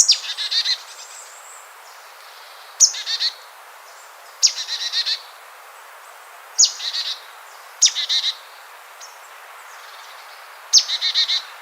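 A bird singing the same short phrase over and over, six times, each phrase a sharp downward-sliding note followed by a quick run of several high chirps, about every two seconds, over a steady faint hiss.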